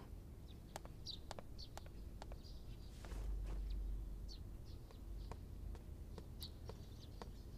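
Faint quiet-room ambience: scattered short, high bird chirps and small clicks over a low steady hum, with a soft low swell a few seconds in.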